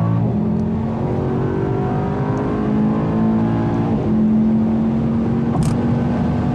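Mercedes-AMG E63 S's twin-turbo V8 at full throttle under kickdown, heard from inside the cabin during a 100–200 km/h run. Its pitch climbs through the gears, with one gear change near the start and another about four seconds in.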